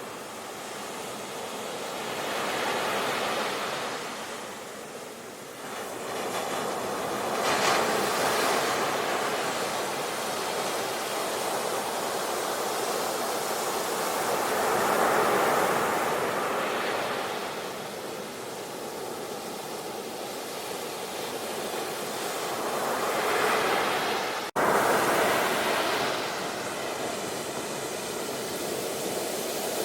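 Sea waves breaking and washing on the shore, the surf swelling and falling back every few seconds. About three-quarters of the way through, the sound cuts out for an instant and comes straight back.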